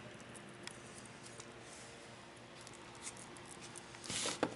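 Faint scattered clicks of small metal hardware being handled, with a brief louder scrape near the end.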